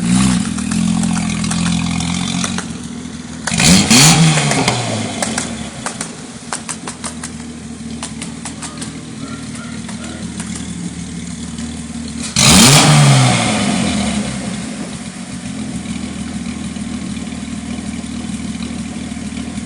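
Datsun 280ZX's inline-six engine breathing through a new loud exhaust, revved hard three times, about four and then eight seconds apart, each time rising and falling in pitch, and running steadily between the revs.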